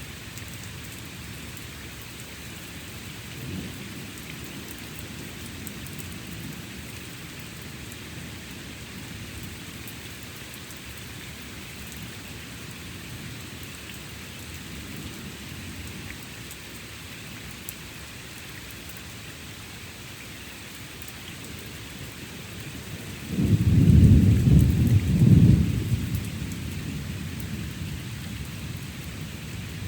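Thunderstorm: steady rain falling, with low thunder rumbling faintly a couple of times. Near the end a loud thunderclap breaks, rumbling in two heavy peaks for about three seconds before fading back under the rain.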